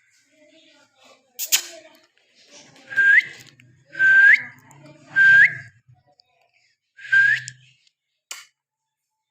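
Four short whistles, each a steady note that flicks sharply upward at the end, spaced about a second apart with a longer gap before the last. A sharp click comes about a second and a half in and another near the end.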